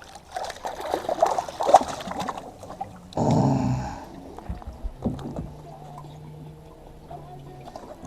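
Knocks and rattles on a fishing boat while a fish is brought aboard, with a loud noisy burst about three seconds in and a low steady hum through the second half.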